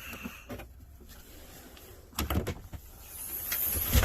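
Sleeper-cab bunk being lifted up by hand: a cluster of knocks about two seconds in, then a rising scraping rustle that ends in a sharp thump near the end.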